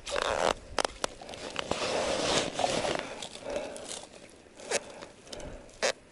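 Crunching and rustling of ice and clothing, with a few sharp clicks, while a burbot is worked up through a hole in the ice by hand.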